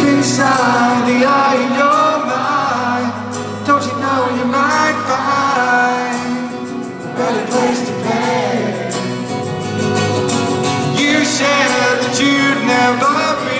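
Live rock band music with singing over it, loud throughout.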